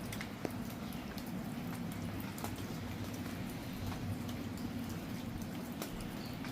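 Steady patter of rain, with scattered sharp ticks of drops striking nearby surfaces over a low steady hum.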